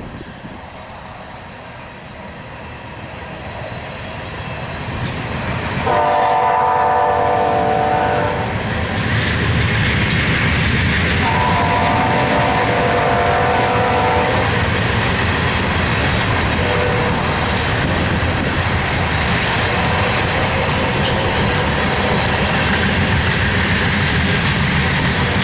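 BNSF loaded coal train approaching with a rising rumble, sounding two horn blasts about six and eleven seconds in. The locomotives and coal cars then pass with loud, steady rumbling and rail noise.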